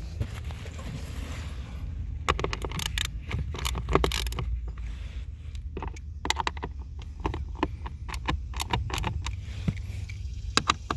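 Screws being tightened with a hand tool to fasten a new AC blower fan motor: a run of irregular metallic clicks and ticks from about two seconds in, over a low steady hum.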